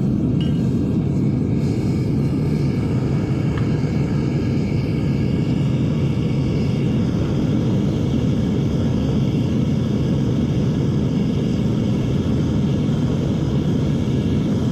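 Devil Forge melting furnace's burner running, a steady low rushing noise.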